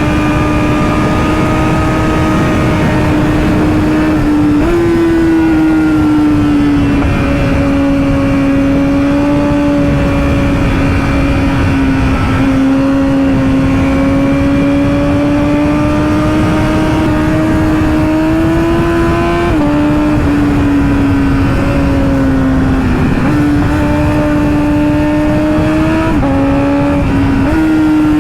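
Sport bike engine running hard at speed, its note drifting slowly up and down and jumping suddenly several times as the rider shifts and changes throttle, over a steady wind rush.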